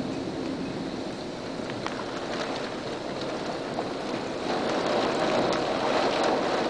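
Storm winds of about 60 mph blowing in a steady rush that swells louder about four and a half seconds in, with scattered sharp ticks through the middle and latter part.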